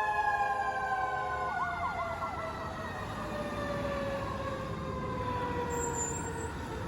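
Emergency vehicle siren winding down, its pitch falling slowly and steadily. A brief fast warble sounds over it about one and a half seconds in.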